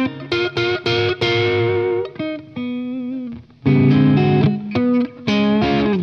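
Electric Telecaster played through an Origin Revival Drive pedal on its orange channel, with the guitar's volume and tone knobs rolled back so the drive cleans up to a lightly driven tone. Picked chords and single notes, a held, slightly wavering note about halfway, then fuller, louder chords.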